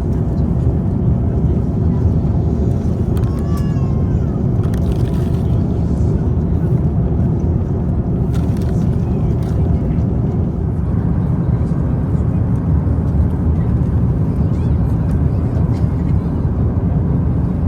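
Steady roar inside an Airbus A350-900 airliner's cabin in cruise, a deep, even rush of engine and airflow noise.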